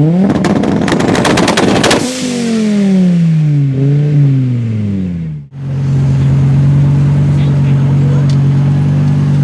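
Audi five-cylinder engine held high in the revs on launch control with a rapid run of loud crackles and bangs, then the revs falling away with one brief rise. After an abrupt cut about halfway through, a steady low hum.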